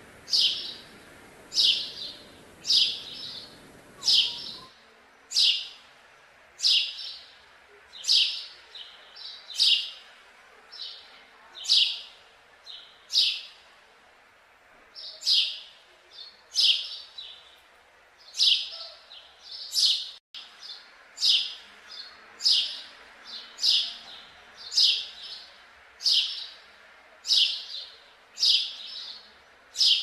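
A small bird chirping a short, high call over and over at an even pace, about once a second. A low background hiss under the chirps stops suddenly about four seconds in.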